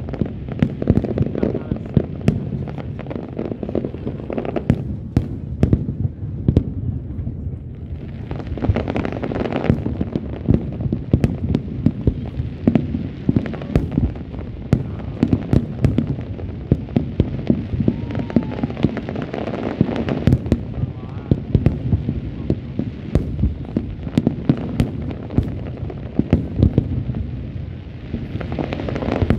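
Aerial fireworks display: a continuous barrage of shell bursts, dense booms and sharp cracks following one another several times a second, with rolling rumble between them.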